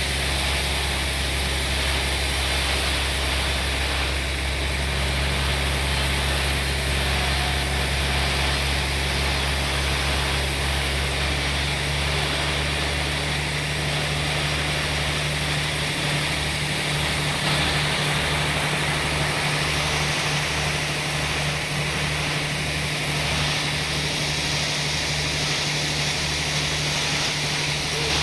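Sawmill machinery running steadily: a low engine hum under a continuous hiss.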